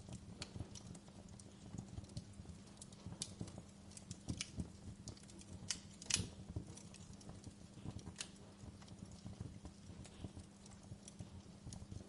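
Wood fire crackling in a fireplace: irregular pops and snaps over a low steady hum, the loudest snap about halfway through.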